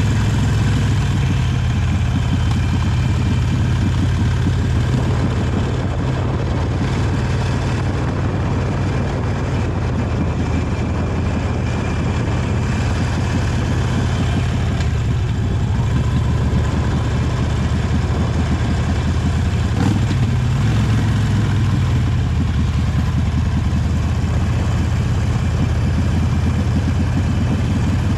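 Harley-Davidson Sportster 883 Iron's air-cooled V-twin engine running steadily on the original exhaust, its note dipping and rising slightly a couple of times with the throttle.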